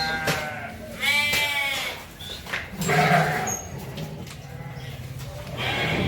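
Sheep bleating, several calls one after another. The loudest is a long, wavering bleat about a second in, with shorter ones around three seconds and near the end.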